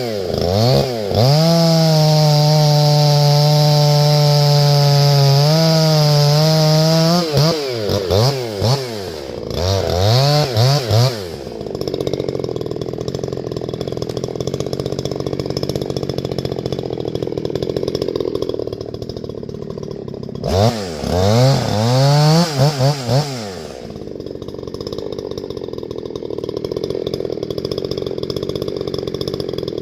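Two-stroke chainsaw revving: a few quick blips, then held at high revs for about six seconds. It settles into a steady idle, is revved in bursts again about two-thirds of the way through, and drops back to idle.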